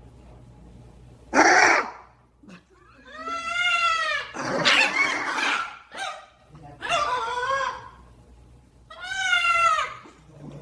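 Animal calls: a short harsh screech, then several drawn-out cries that waver in pitch, with short pauses between them.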